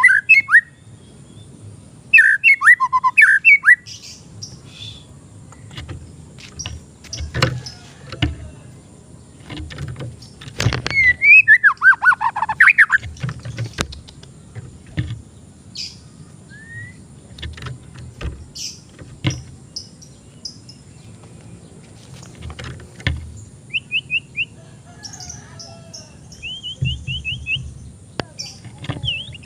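White-rumped shama (murai batu) singing in short bursts of fast, sliding whistled phrases, with quieter chirps between them. Sharp clicks and knocks come in between the phrases.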